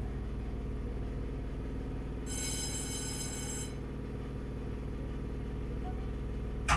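Enoden electric train running, a steady low hum and rumble from the motors and wheels. A high-pitched squeal sounds for about a second and a half a couple of seconds in, and a single sharp clack comes right at the end.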